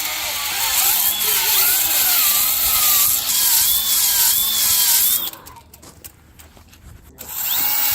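Handheld trigger-operated power tool running with a loud hissing whir whose pitch wavers as the trigger is feathered. It stops about five seconds in and starts up again near the end.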